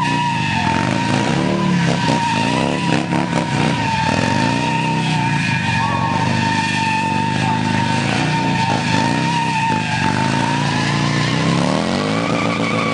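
Motorcycle doing a donut: the engine revs up and down over and over while the spinning rear tyre squeals with a steady high tone.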